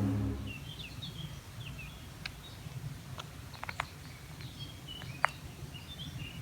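Small songbirds chirping in short, repeated calls over a low, steady outdoor rumble. A ringing musical tone fades out within the first half second, and a few faint clicks sound in the middle.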